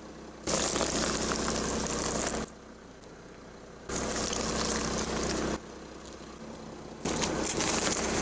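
Three stretches of hissing, splashing noise, each about two seconds long, starting and stopping abruptly, over a steady low hum like an idling car engine: liquid spraying out of objects crushed under a car's tyre.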